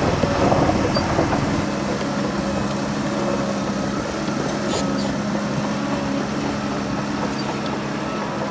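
Heavy diesel engine of earthmoving machinery running steadily, with a deeper, heavier rumble for the first couple of seconds that then eases off.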